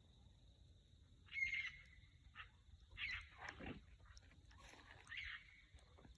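Faint cries of an unseen wild animal at night: three calls, the middle one sliding steeply down in pitch.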